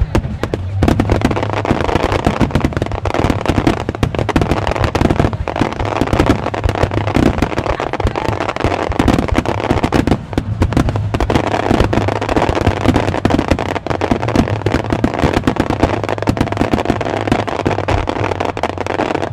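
Starmine fireworks barrage: many shells launching and bursting in rapid succession, sharp reports following one another several a second with barely a pause.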